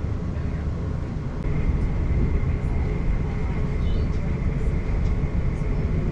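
Inside a moving passenger train carriage: steady low rumble of the train running along the track, with a steady high whine joining about one and a half seconds in.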